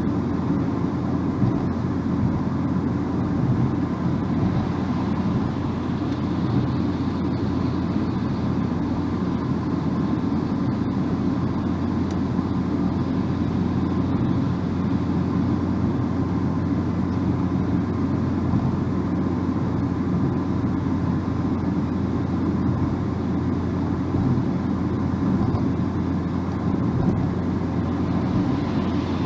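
Steady road noise of a car driving at speed, heard from inside the cabin: an even low rumble of tyres and engine with no changes.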